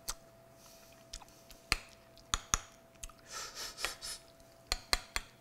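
A person chewing a mouthful of just-cooked instant ramen noodles while tasting them. Several sharp clicks are spread through it, and there is a faint steady tone underneath.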